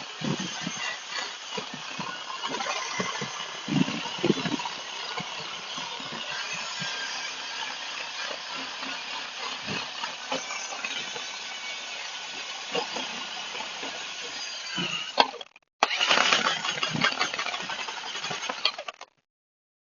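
Handheld power tool running hard against metal with a gritty, rasping sound. It stops briefly about three-quarters of the way through, starts again for a few seconds, then cuts off near the end.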